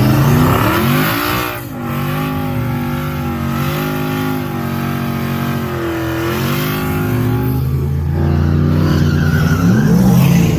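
Truck engines revving hard at a drag race, the engine note dropping and climbing again several times over a steady rushing noise.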